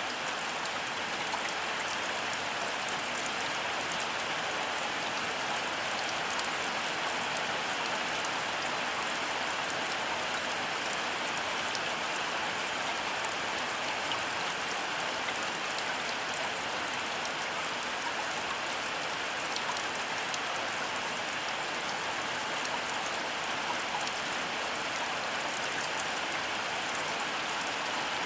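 Steady heavy rain falling and pattering on surfaces, an even hiss with many fine drop ticks.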